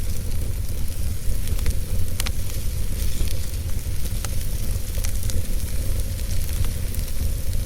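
Wood fire burning in a fireplace: a steady low rumble and hiss of the flames with scattered sharp crackles and pops from the burning wood.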